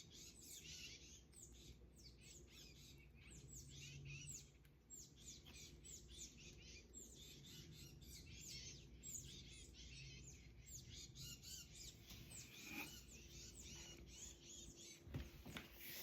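Faint early-morning chorus of songbirds: many quick, overlapping chirps and short downward-sweeping notes.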